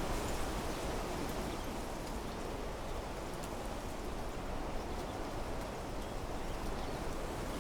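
Wind blowing through trees, with a steady rustle of leaves over a low wind rumble. A few faint short ticks sound now and then.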